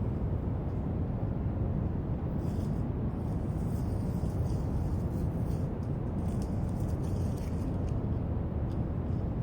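Steady brown noise, deep and even, with faint scratchy strokes of a marker on paper coming and going over it.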